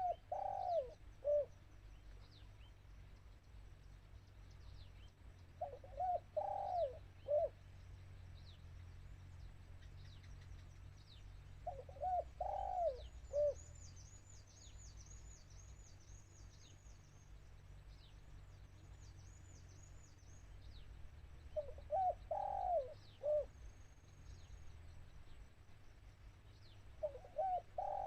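A spotted dove cooing: a short phrase of a few low coos, repeated five times about five to six seconds apart. It is the decoy bird calling to lure wild doves. Faint high chirps of small birds run between the phrases.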